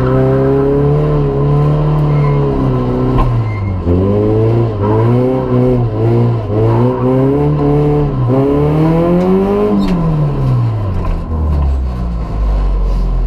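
Rally car engine heard from inside the cabin, its revs rising and falling again and again as the car is driven hard through the slalom. About ten seconds in the revs drop away steeply as the car slows, leaving a low, steady running.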